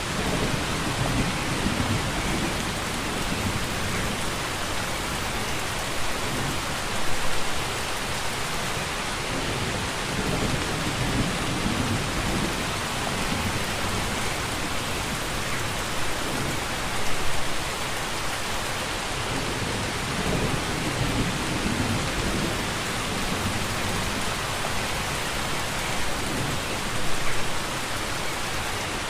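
Steady rain falling, with low rumbles of thunder; a brief louder swell recurs about every ten seconds.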